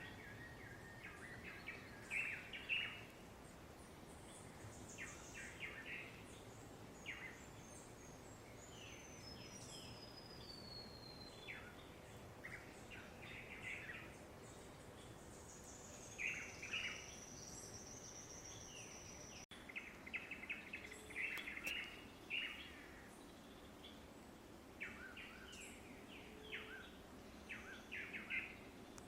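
Several forest birds singing at dawn: repeated short bursts of chirps, a high trill that falls in pitch about a third of the way in, and a steadier high trill a little past the middle.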